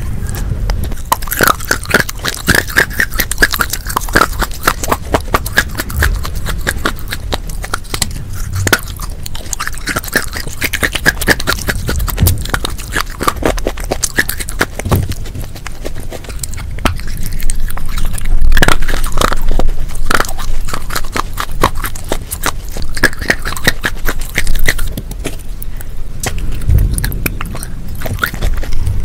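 Close-up crunching bites and chewing of pieces of a fired red clay plate, with sharp crunches in quick succession throughout.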